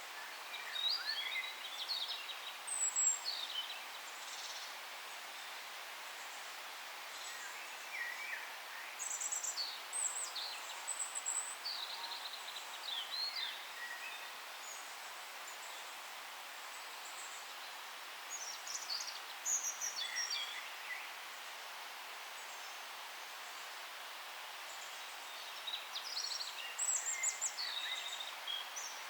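Songbirds chirping and singing in short, high trills, in four clusters with quiet gaps between, over a steady faint hiss of forest background.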